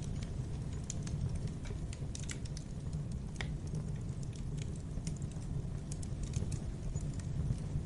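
Wood fire crackling: irregular small pops and snaps over a steady low rumble of the flames, with one sharper pop about three and a half seconds in.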